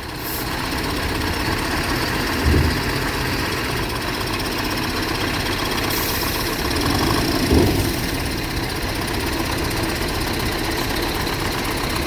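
Heavy diesel engine running steadily, with a low thump about two and a half seconds in and another about seven and a half seconds in, and a brief hiss around six seconds in.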